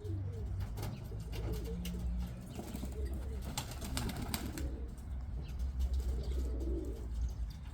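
A loft of domestic pigeons cooing over and over in low, rolling calls, with a brief run of sharp rustling clicks a little past the middle.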